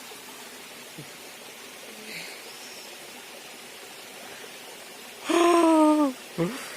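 A loud held voice-like hoot about five seconds in, lasting under a second, with its pitch falling slightly, followed by a short blip, over a steady hiss.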